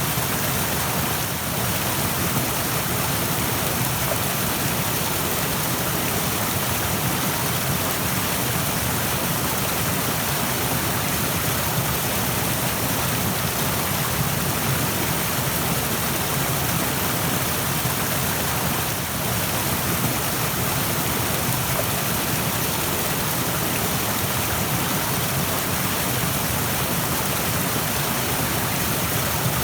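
Rushing stream water, a steady, even rush of flowing water.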